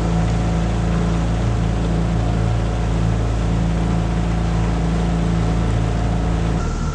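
Tohatsu 9.8 hp four-stroke outboard motor running steadily under way, with the boat's water noise. Near the end the engine note changes as the throttle comes back.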